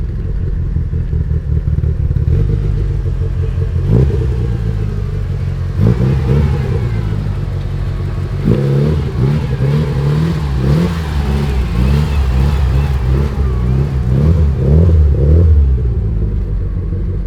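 Car engine running and revving loudly, its pitch rising and falling repeatedly in the second half, cutting off abruptly at the end.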